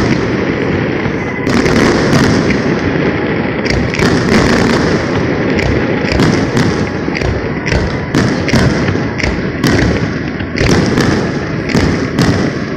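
Fireworks display firing a rapid barrage: loud overlapping bangs and crackling. Sharp reports come several times a second from about four seconds in.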